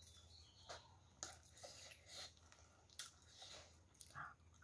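Faint mouth sounds of a person chewing a handful of chicken curry and rice: a string of short wet smacks and clicks, about two a second.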